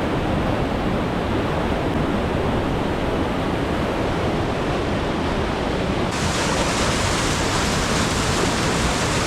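Rushing water of a mountain waterfall and rock slide in heavy flow after rain, a loud, steady wash of noise. About six seconds in it suddenly turns brighter and hissier.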